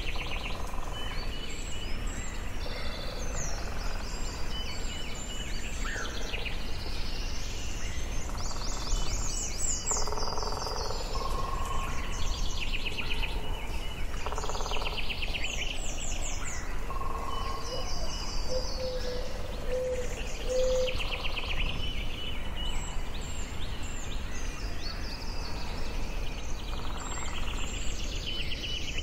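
Forest ambience: many birds singing and calling at once, a dense mix of chirps, fast trills and short whistles, over a steady low rumble.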